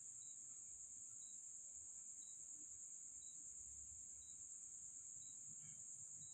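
Faint, steady high-pitched chirring of night insects such as crickets, with a faint short tick about once a second.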